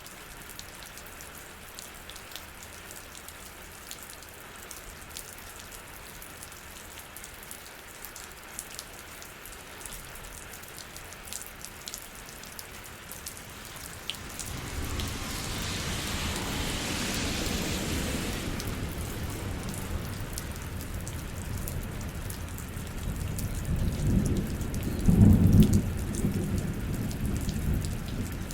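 Steady rain falling, with scattered drops ticking. About halfway through, thunder begins rolling, and a second, louder roll of thunder comes near the end.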